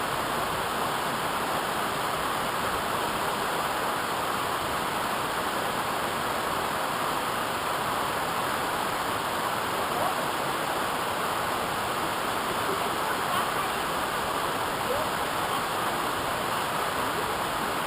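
Steady rushing water of a waterfall, an even roar without breaks.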